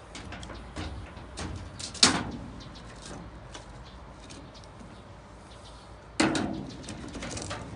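Two sharp knocks, about four seconds apart, each with a short ring, among lighter clicks and rustling from handling things.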